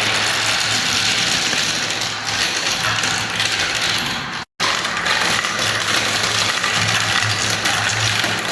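Marbles rolling and rattling continuously down a spiral marble-run track, a steady rolling rush with a low hum under it. It cuts out for a split second about four and a half seconds in, then carries on.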